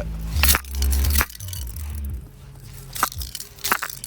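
Hands straining to bend a BB-punctured metal target, with sharp cracks and clicks from the metal and handling rumble. Two loud cracks come in the first second and a half, then fainter clicks later. The metal barely gives.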